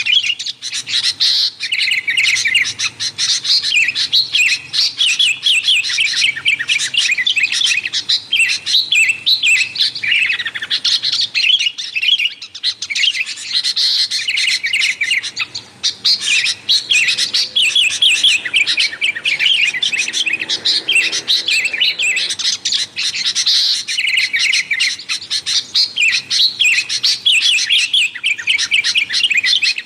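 Sooty-headed bulbuls (kutilang) chattering noisily in a dense, continuous stream of rapid chirps, with short lulls about 12 and 16 seconds in. This is the kind of calling used to lure wild bulbuls.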